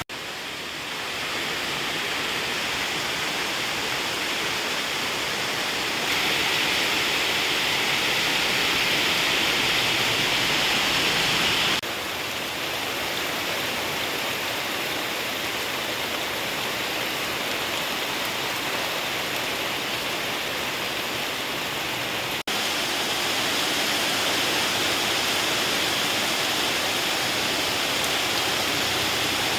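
Heavy rain pouring down as a steady, even hiss of water, with no thunder. The rain level jumps abruptly a few times where separate recordings are joined.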